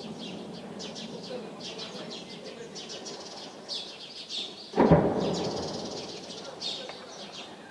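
Small birds chirping over a low background hum, then about five seconds in a single heavy blast from the street fighting that echoes away over a couple of seconds.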